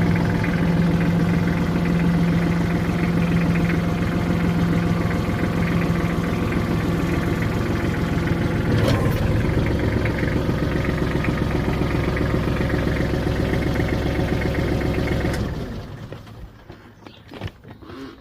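Kubota L3130 tractor's four-cylinder diesel engine running steadily. About halfway through its tone changes, and near the end it is shut off abruptly, leaving a few light knocks.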